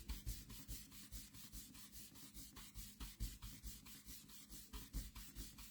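Blender brush rubbing ink onto cardstock in quick back-and-forth strokes, about five soft scratchy strokes a second.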